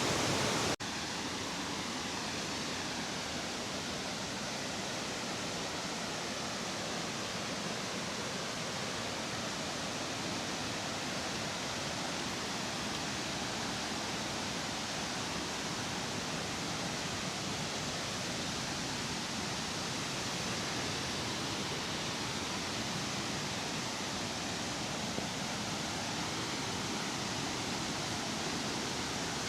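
Waterfall, a steady rush of falling water, with a brief break about a second in where the sound cuts and resumes slightly quieter.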